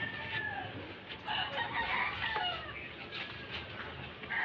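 Birds calling: several short pitched calls that slide in pitch, bunched about a second to two and a half seconds in, over a steady outdoor background.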